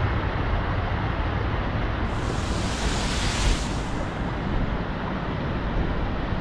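A waterfall rushing in a steady, even roar of falling water.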